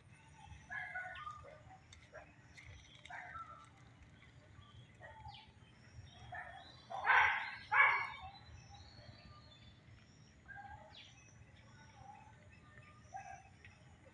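Birds chirping, with scattered short calls and two louder short sounds about seven and eight seconds in.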